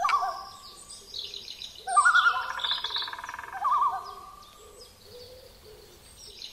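A bird's long, hooting calls. A short call comes at the start, then a long wavering call with a warble in it from about two seconds in, fading after about four and a half seconds.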